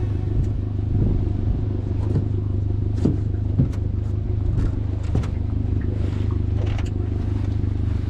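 Motorboat engine running steadily with a low drone, with a few short knocks and clatters against the hull or fittings.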